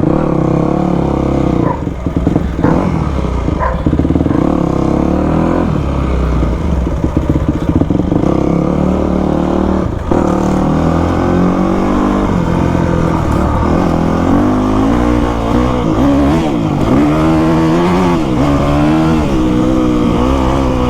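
2000 Yamaha YZ250's two-stroke single-cylinder engine running under way, its pitch rising and falling again and again with the throttle, most in the second half.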